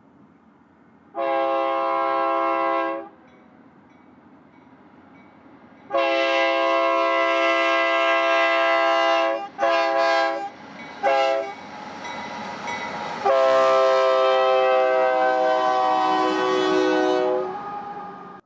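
Union Pacific diesel locomotive's multi-note air horn sounding five blasts: a short one, a long one, two short ones and a final long one whose pitch sags slightly as the locomotive passes.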